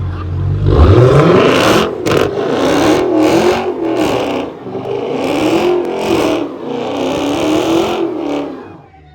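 Engine revving hard. It sweeps up sharply about a second in, then rises and falls in about five surges before dropping away near the end.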